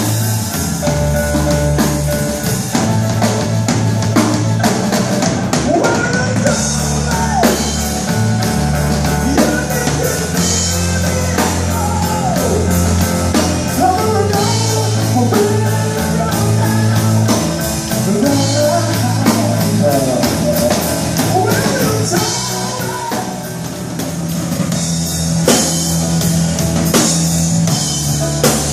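A rock band playing: drum kit, bass and guitar, with a melody line that bends up and down in pitch.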